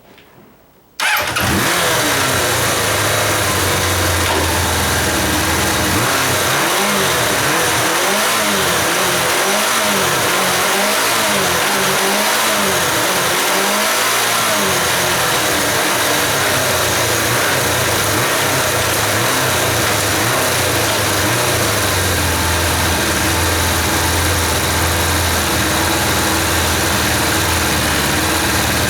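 Kawasaki GPZ550 (ZX550A) air-cooled inline-four engine starting about a second in and running. It is revved in a series of short throttle blips, rising and falling about once a second, then settles into a steady run.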